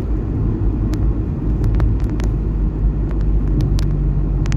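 Steady low rumble of a car on the road, heard from inside the cabin, with scattered light ticks.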